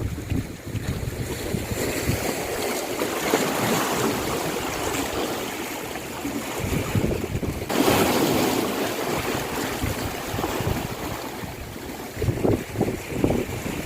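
Sea waves breaking and washing ashore, with wind buffeting the microphone. A louder wave breaks about eight seconds in.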